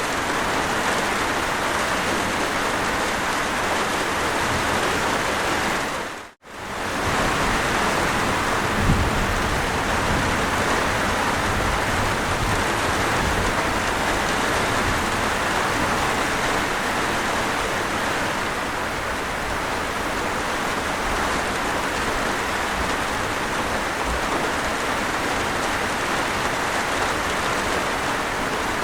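Steady heavy rain falling, an even dense hiss. About six seconds in it fades briefly almost to silence and comes straight back, like a loop point in the recording.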